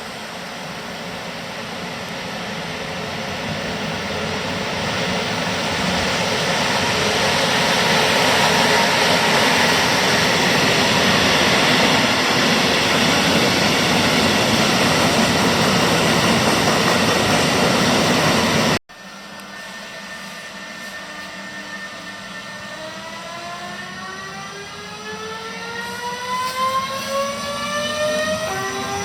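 A train passing through the station at speed: a loud rushing noise that builds over the first several seconds and holds. After an abrupt cut about two-thirds of the way in, an electric train pulls away, its traction motors whining in several tones that rise together in pitch.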